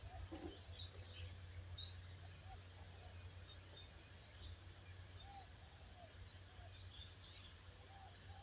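Faint birdsong: thin high chirps scattered throughout, and from about halfway a run of short arched lower notes, over a low steady hum.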